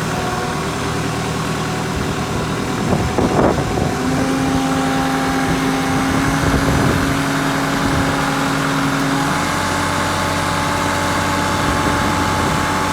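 Kubota M5660 SU tractor's diesel engine running steadily at low revs while the cold engine warms up. A steady whine joins about four seconds in and steps slightly higher about nine seconds in.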